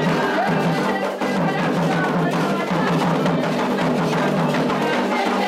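Candomblé ritual drumming: drums played in a dense, continuous rhythm with sharp clicking strikes on top.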